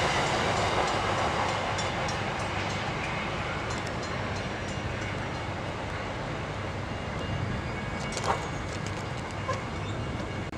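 A Metra commuter train of double-deck cars running away into the distance after passing, its rumble fading steadily, with a few faint clicks from the wheels on the rails.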